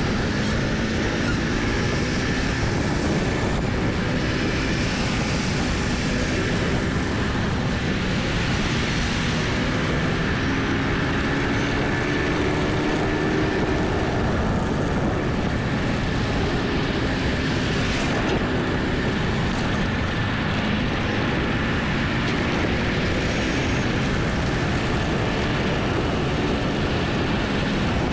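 Motorbike engine running on the move, its note rising and falling gently with speed, under steady wind rush on the microphone.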